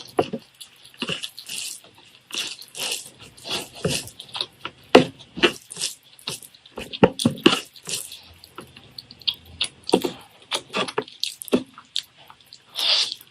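A person eating close to the microphone: irregular wet chewing, smacking and squishing sounds, one after another.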